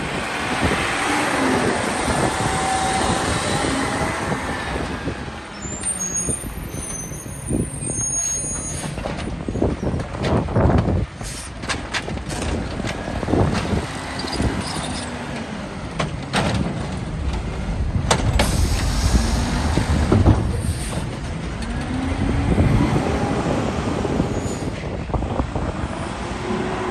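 Garbage truck at work: its engine revs up and down several times, loudest near the start and again near the end. In the middle come a string of sharp bangs and knocks, and a hiss of air brakes.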